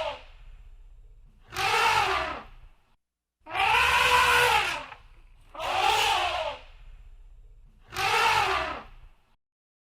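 Elephant trumpeting: four loud calls about two seconds apart, each rising then falling in pitch.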